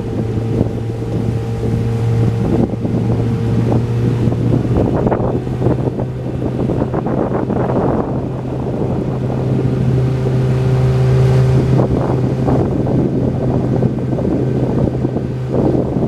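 An engine running at a steady speed with a constant low hum, with wind buffeting the microphone in gusts.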